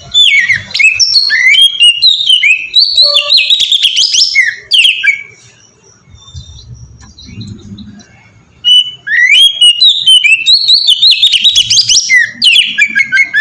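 Oriental magpie-robin singing in two bursts of rapid, varied whistled and chattering phrases, with a pause of about three seconds between them.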